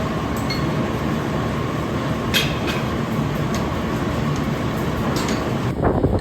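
Steady factory machinery noise with a faint, even hum, broken by a few light metal clinks, the sharpest about two and a half seconds in.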